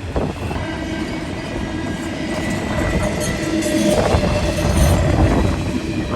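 CSX intermodal freight train rolling past: a steady rumble of wheels on rails with faint ringing tones, growing louder about four seconds in.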